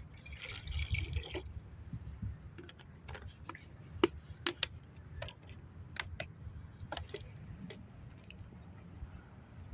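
Camp cooking sounds: a short pour or splash of liquid about a second in, then scattered sharp clicks and ticks over a low rumble.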